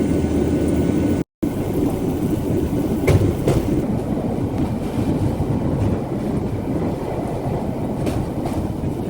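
Rail bike's steel wheels rolling along railway track with a steady rumble, clacking twice in quick pairs as the wheels pass over rail joints. The sound briefly drops out just over a second in.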